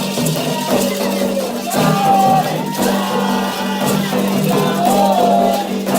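Candomblé ritual music: voices singing a chant over hand percussion with shaken rattles, struck in a steady rhythm.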